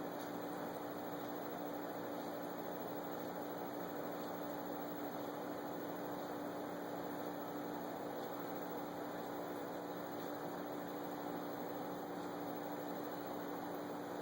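Steady electrical hum with one constant low tone over a soft even hiss, unchanging throughout, typical of an aquarium pump running.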